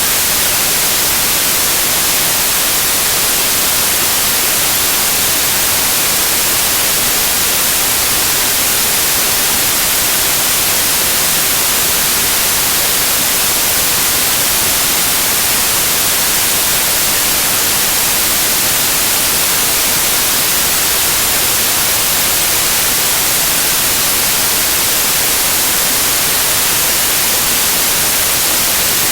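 Loud, steady white noise: an even, unchanging hiss, strongest in the highs.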